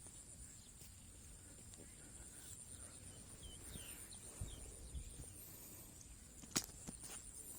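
Faint outdoor ambience with a steady high-pitched whine, a few faint bird chirps around the middle, and one sharp click about six and a half seconds in.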